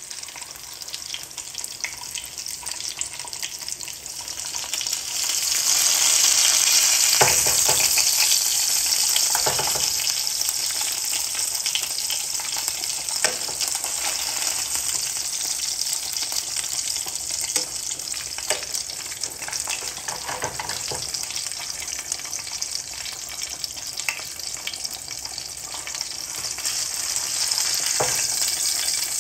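Salmon fillets sizzling in a non-stick frying pan, a steady hiss that grows louder about five seconds in, with a few sharp clicks of tongs and utensils against the pan.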